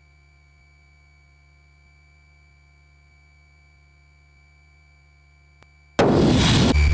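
Cessna 172 cockpit audio heard through the headset intercom feed: a low steady hum with a thin constant high tone. About six seconds in, a loud burst of hiss lasting about a second cuts in, as an intercom mic or radio opens and passes the noise through.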